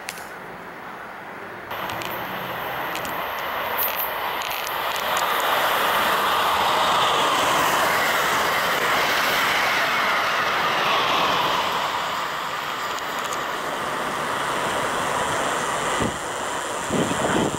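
Bombardier/Alstom Acela Express high-speed trainset passing close at speed: a dense rush of wheel and air noise that builds for a few seconds, stays loud, then eases a little.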